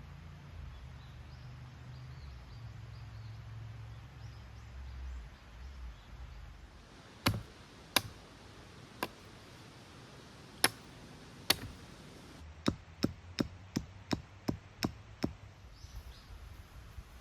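Titanium tent pegs being hammered into the ground: five spaced sharp knocks, then a quick run of about eight strikes at roughly three a second.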